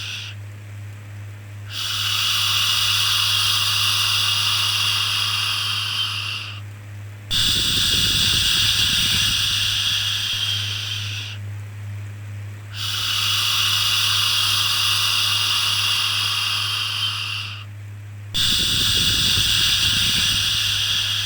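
Repeated long shushing 'shhh' sounds for soothing a baby, each lasting about four to five seconds with a short pause between, over a steady low hum.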